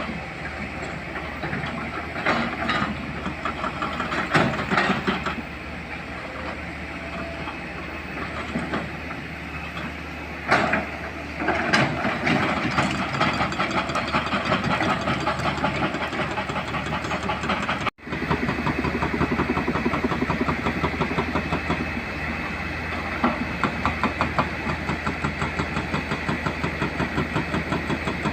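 Hydraulic excavator's diesel engine running under load, with a few sharp knocks of rock and steel in the first half; the sound cuts off abruptly for an instant about two-thirds through, then the engine runs on with a fast, even pulsing.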